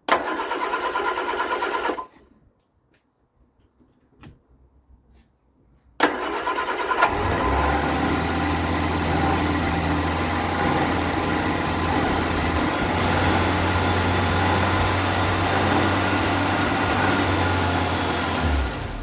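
Vauxhall Viva four-cylinder engine cranked on the starter for about two seconds without firing. After a pause it is cranked again and catches, then runs fast and steady for about eleven seconds before stopping near the end. On its newly fitted Weber carburettor it is racing, idling well above normal.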